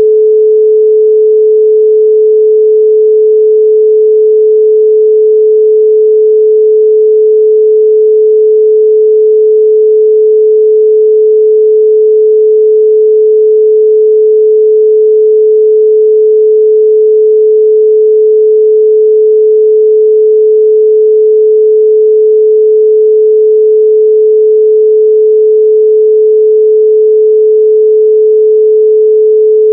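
A continuous 432 Hz pure sine tone, one steady pitch with no overtones, held at a constant loud level.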